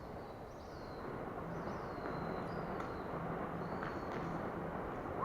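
Outdoor ambience: a steady rumble of traffic that grows louder about a second in, with birds chirping over it.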